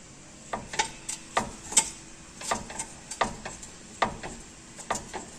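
Worn lower shock-absorber bushing in a Ford Ranger's front suspension clicking and knocking as the lower control arm is levered back and forth with a screwdriver: a series of sharp clicks, two or three a second, from play in the bushing, which needs replacing.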